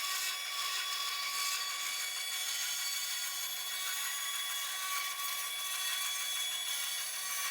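A small power tool running steadily against wood: a constant motor whine over a rough hiss, without a break.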